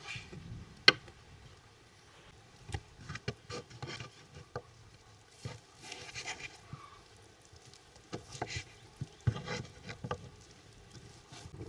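Scattered clicks and knocks with a few short scraping sounds, as of a spoon stirring and tapping in a cooking pot. A single sharp knock about a second in is the loudest.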